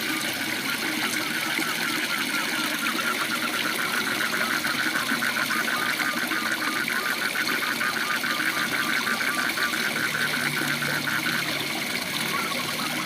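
Waterfall rushing steadily, with frogs calling over it in fast trains of short, evenly repeated notes, several a second, that fade out near the end.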